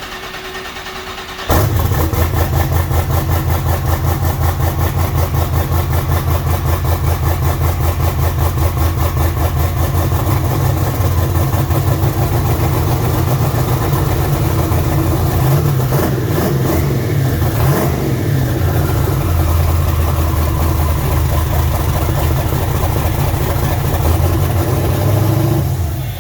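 Twin-turbo 7.3-litre V8 on its first start: the starter cranks briefly, the engine catches about a second and a half in, then idles loud and steady with a fast, even, pulsing beat. It dies away near the end.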